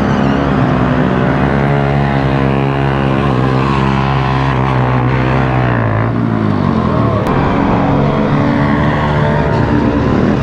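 Mini bike engine running under way, its note holding steady, dropping about six seconds in as it eases off, then rising again.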